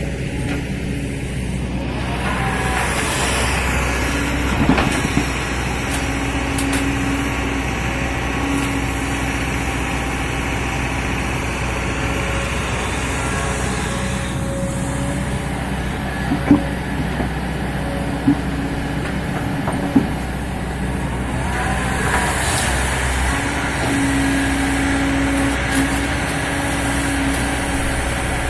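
Heavy diesel machinery of an excavator loading a tipper truck, running steadily, with the engine note strengthening at times under load. A few sharp knocks come about two-thirds of the way through.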